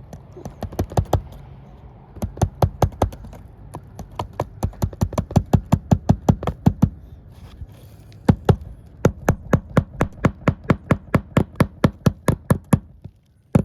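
Hammer driving nails into roof shingles: runs of quick, sharp strikes, about four a second, broken by short pauses.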